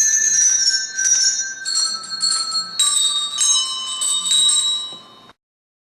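A set of tuned bells played as a melody, a new ringing note about every half second, the tune stepping downward in pitch; the sound cuts off abruptly near the end.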